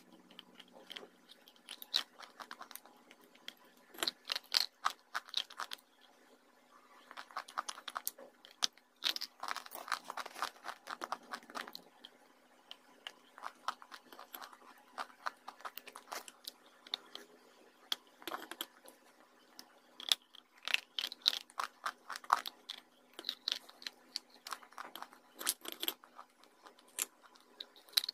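A person crunching and chewing dry slate pencil and white clay close to the microphone. Clusters of crisp, brittle crunches come as pieces are bitten and broken, with quieter chewing between them.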